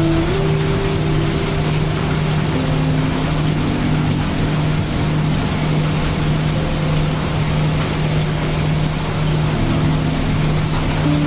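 Steady heavy rain mixed with brown noise, a constant dense hiss. Under it run a low steady hum and soft held notes that change pitch every second or two.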